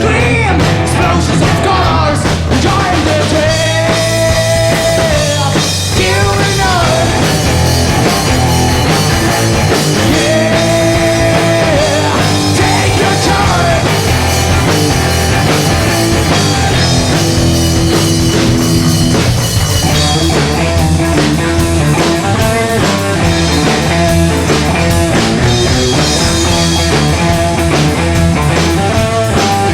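Rock band playing live with guitar and drum kit, a singer holding long notes over it; about two-thirds of the way in the vocals stop and the band plays on.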